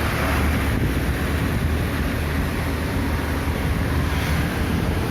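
Flooded river rushing steadily, mixed with low wind buffeting on the microphone.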